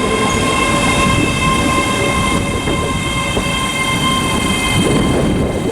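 ScotRail Class 385 electric multiple unit pulling into the platform: a steady, many-toned electric whine from its traction equipment over the rumble of its wheels on the track.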